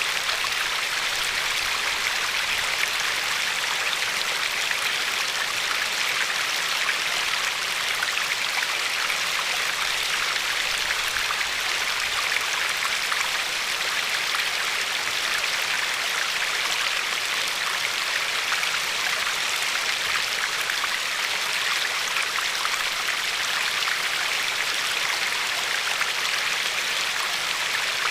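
Glacier-fed river flowing and lapping along a pebbly shore: a steady, even rush of water with fine splashing.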